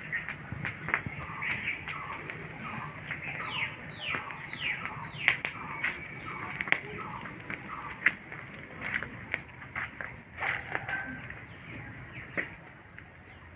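Birds calling in a run of short, quick descending chirps, with scattered sharp knocks, the loudest about five and ten seconds in.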